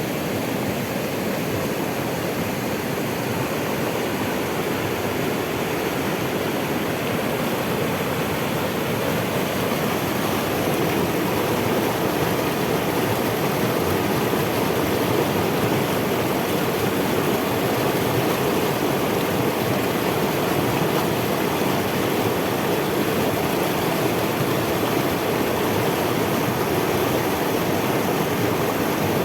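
Waterfall: a steady rush of falling water, growing a little louder after about ten seconds.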